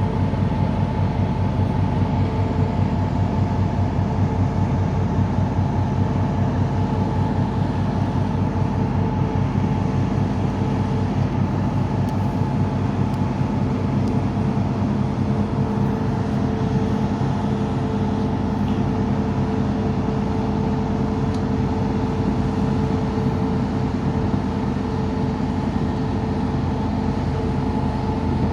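A large engine running steadily under load: a constant low drone with several steady humming tones over it.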